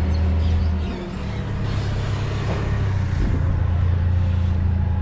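Engine running steadily with a low hum, dipping briefly about a second in and then holding a little louder.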